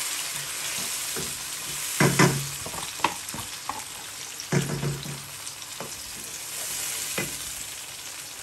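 Sliced onions and just-added chopped tomatoes sizzling in oil in a granite-coated wok, with a steady hiss. A wooden spatula stirs and knocks against the pan, loudest about two seconds in and again near the middle.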